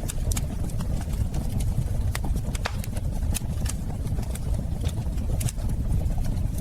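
Wood fire burning in a fireplace: a steady low rumble with irregular crackles and pops, several a second.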